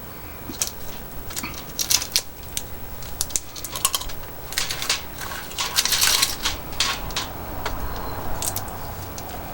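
Handling of sour candy packaging: irregular clicks, taps and short plastic crinkles, the loudest crinkle about six seconds in.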